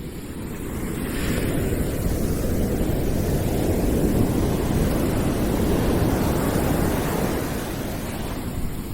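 A deep rushing noise with no tones or voices, like surf, swelling over the first couple of seconds, holding, and easing off near the end.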